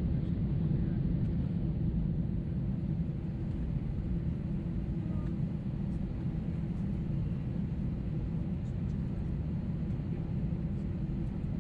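Steady low rumble of an Airbus A321neo's engines and airflow, heard inside the cabin from a window seat.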